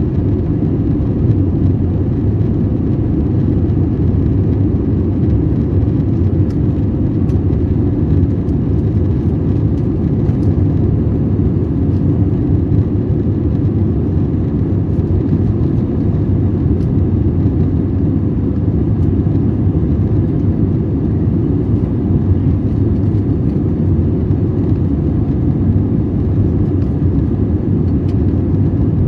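Steady low cabin rumble of an airliner's jet engines and rushing air, heard from inside the passenger cabin.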